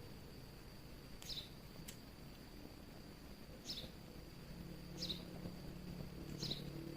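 Faint night ambience: a steady high insect-like trill with a short, falling bird-like chirp repeated about every second and a half, and a single sharp click like a fire crackle.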